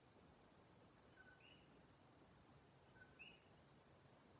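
Faint night ambience: crickets give a steady high trill throughout, and twice a bird's call comes, a short note followed at once by a slightly higher one, repeating about every two seconds as the birds call back and forth.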